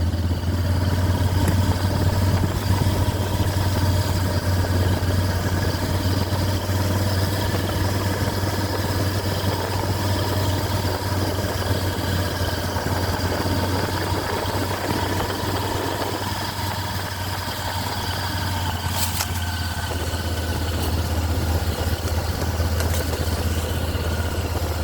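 Motorcycle engine running steadily at an even speed, with a couple of brief clicks about nineteen seconds in.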